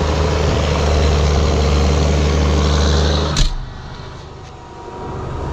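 Ford TW tractor's six-cylinder diesel engine running steadily under load while pulling a plough, a low, even drone. About three and a half seconds in there is a click and the engine sound drops sharply to a much quieter level.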